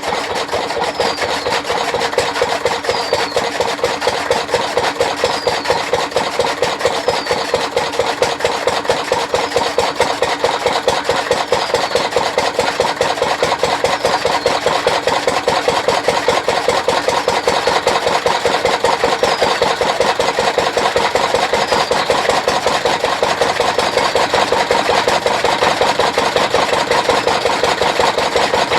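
Small engine driving a chaff cutter, running steadily with a fast, even beat. A faint short squeak repeats about every two seconds.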